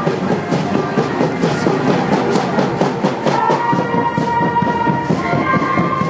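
A band playing music, with drums and percussion keeping a steady beat and held notes coming in about three seconds in.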